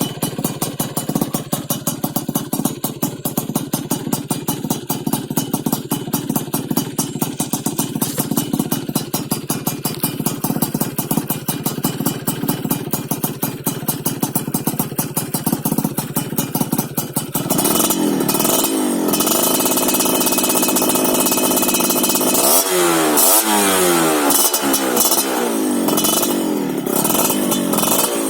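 Yamaha F1ZR two-stroke single-cylinder engine running through an aftermarket full-stainless BM Power exhaust with a PDK rainbow silencer: it idles steadily with a rapid popping, then about two-thirds through it gets louder and is revved up and down several times.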